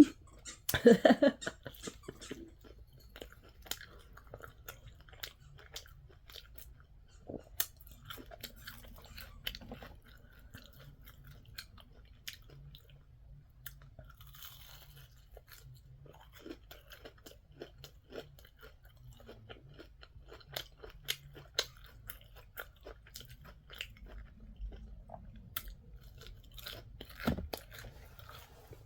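A person chewing and biting fried food close to the microphone: soft crunches and wet mouth clicks scattered all through. A short hum of voice comes about a second in.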